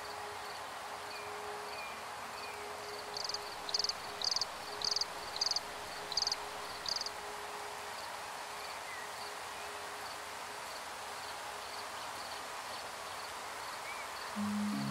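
A bird calling: seven short, high-pitched, buzzy notes in an even series, a little under two a second, starting about three seconds in, over a steady background hiss with faint regular ticking.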